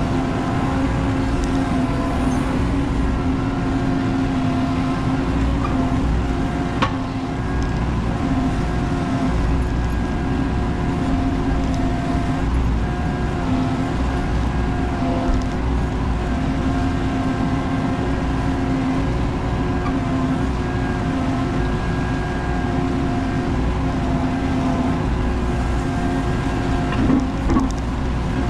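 Menzi Muck spider excavator's diesel engine running steadily, its pitch wavering slightly as it works. There is one sharp knock about seven seconds in and a couple of smaller knocks near the end.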